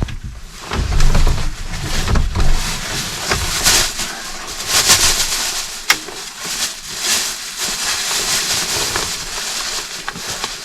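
Wind gusting, buffeting the microphone with a low rumble for the first few seconds, then a louder rushing gust a few seconds in.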